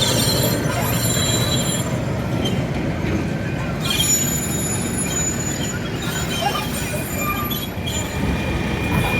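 Narrow-gauge St Kitts Scenic Railway train running: a steady rumble of the cars on the track, with thin, high wheel squeals coming and going above it.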